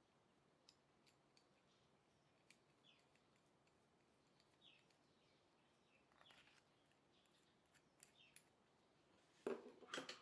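Quiet background with a few faint, short high chirps, each falling in pitch, and scattered light clicks; a louder clatter of knocks comes near the end.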